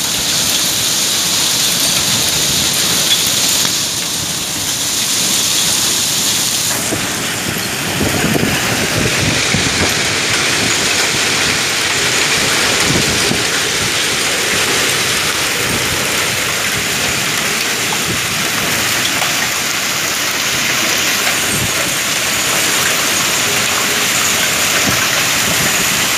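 Heavy rain driven by strong wind: a loud, steady rush of downpour and wind, with irregular low gusty rumbles from about eight seconds in.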